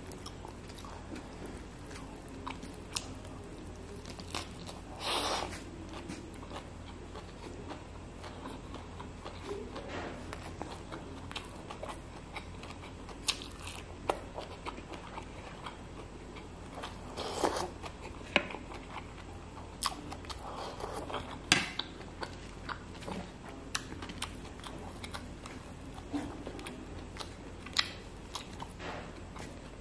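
Close-up chewing and wet mouth sounds of a person eating rice and fish by hand, with many small smacks and clicks and a few louder crunchy bites, over a steady low hum.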